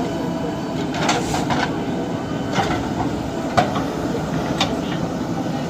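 JCB 3DX Super backhoe loader's diesel engine running steadily, with several sharp knocks a second or so apart.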